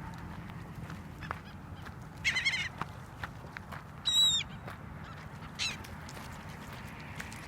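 Seagulls calling: a quick run of calls about two seconds in, the loudest call about four seconds in, and a short call near the end.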